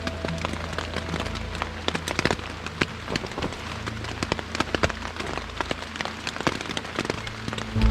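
Wood campfire crackling: irregular sharp pops and crackles, with soft background music underneath.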